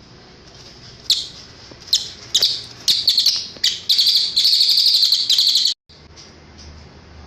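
Cililin songbird singing: a series of short, high chirps, then a rapid high trill of nearly two seconds that cuts off abruptly just past the middle.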